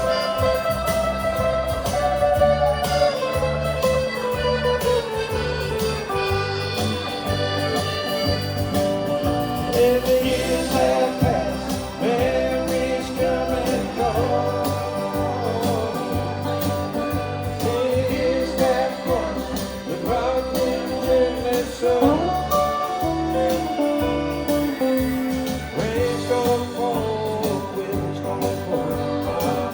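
A live performance of a soul-gospel ballad: a singer holding long, wavering notes over steady band accompaniment.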